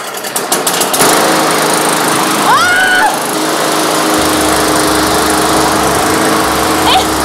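Gas lawn mower engine running. It comes up to a steady, loud drone about a second in, with a short high rising-and-falling squeal about two and a half seconds in.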